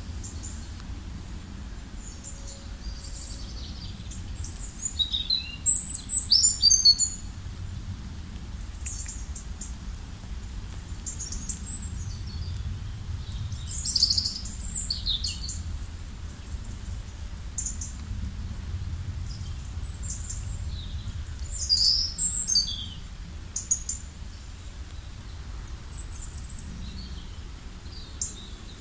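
Several songbirds chirping and singing in short high-pitched phrases, busiest about six, fourteen and twenty-two seconds in, over a low steady rumble.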